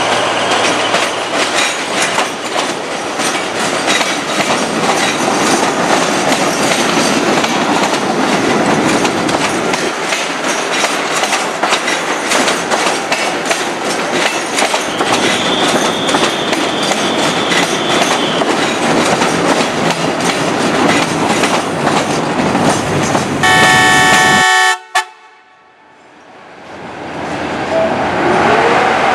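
Train running on the rails with dense wheel clatter over rail joints. A thin high tone holds for a few seconds midway. Near the end, a short loud train horn blast is cut off abruptly; after a brief drop in level, a quieter train rumble swells up.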